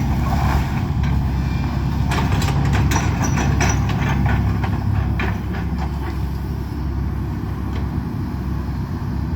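Excavator's diesel engine running steadily during a house demolition, with a cluster of cracks and snaps from about two to five seconds in as the structure is broken apart.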